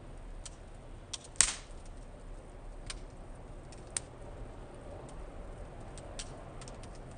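Small wood and newspaper fire crackling, with a few scattered sharp pops and one loud pop about a second and a half in.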